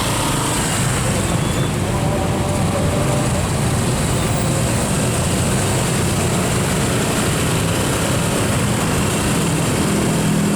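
Steady noise of a traffic jam: the engines of slow-moving, queued vehicles running together, with a continuous low hum.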